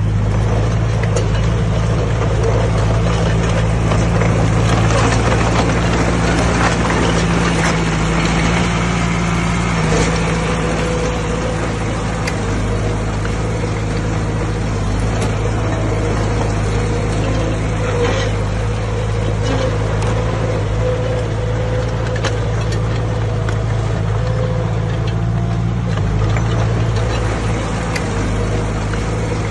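Heavy earthmoving machinery's diesel engine running steadily under work, its pitch shifting a little now and then, with a few scattered knocks.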